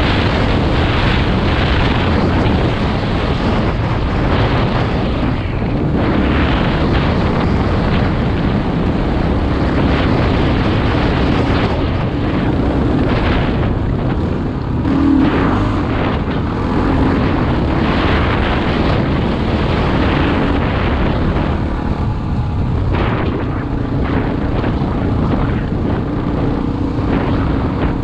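Single-cylinder four-stroke dual-sport motorcycle engine running under way off-road, its pitch rising and falling with the throttle, heard over heavy wind noise on a helmet-mounted microphone.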